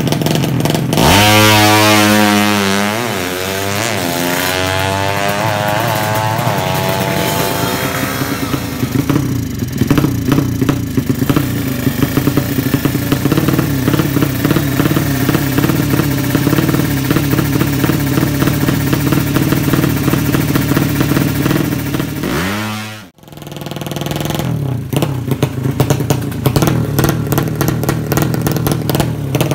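Drag-racing motorcycle engine revved up and down several times, then held at a steady, fairly high idle. The sound drops away briefly about three-quarters of the way through and then resumes at the same steady pace.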